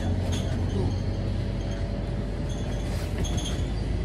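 Scania K310UD double-decker bus running, heard from inside the cabin: a steady low drone of engine and road noise, with a few faint rattles.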